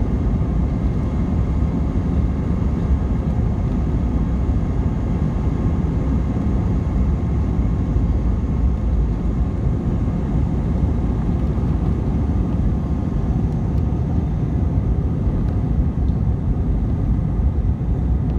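Steady rumble of an Airbus A319 airliner heard from inside the passenger cabin: engine and air noise running evenly, with no change in pitch or level.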